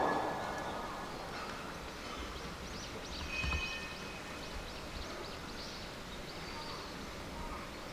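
Outdoor ambience with birds chirping: a run of quick rising and falling chirps in the middle, over a steady background hiss and a brief low rumble about three and a half seconds in.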